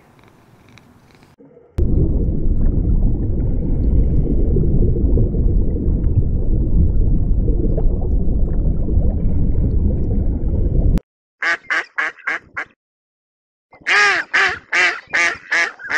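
A loud, steady low rumbling noise for about nine seconds that cuts off suddenly, then two quick series of short, rapid animal calls, about six and then about seven in a row.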